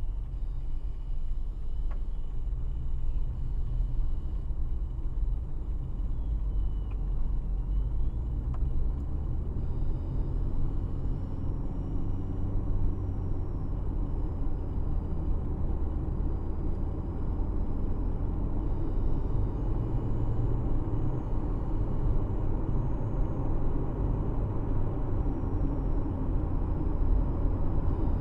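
Steady low rumble of a car on the road: engine and tyre noise.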